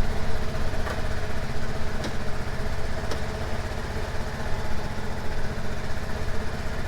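Vehicle engine idling steadily while it warms up.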